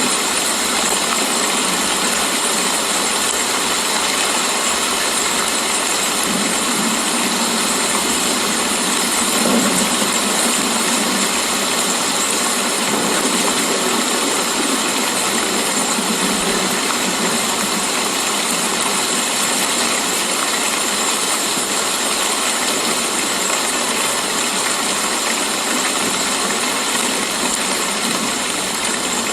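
Steady rain falling, an even hiss that stays at the same level throughout.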